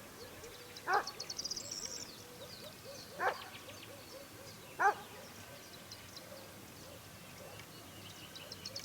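A dog gives three short barks about a second and a half apart, over a small songbird's quick run of high notes ending in a buzz early on.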